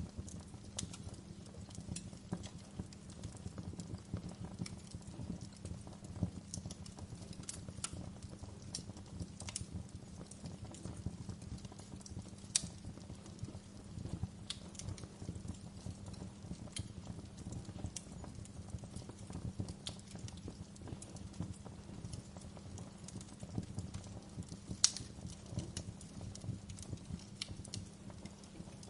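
Wood fire in a fireplace crackling, with a steady low rumble under irregular sharp pops, two of them louder: one a little before the middle and one near the end.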